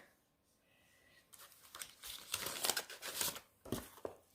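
Sheets of paper and card rustling as they are handled, with a few small knocks as craft supplies are picked up and set down. It starts about a second in.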